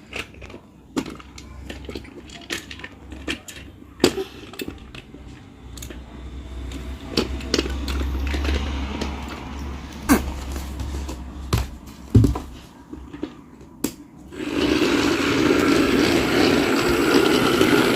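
Plastic toys being handled, with scattered clicks and knocks and a low rumble in the middle. About two-thirds of the way through, a loud, steady rushing noise starts and runs on.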